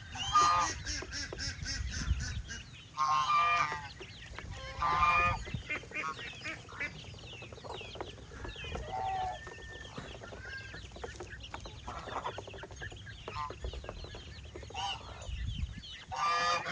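Farmyard poultry calling: domestic geese honking and chickens clucking. The loud calls come in clusters at the start, around three and five seconds in, and again near the end, with many small chirps between.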